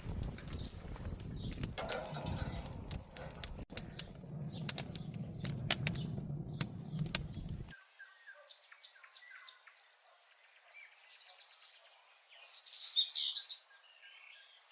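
A clatter of sharp clicks and knocks over a low rumble, which cuts off suddenly about halfway through. Then small birds chirp quietly, with a loud burst of bird calls near the end.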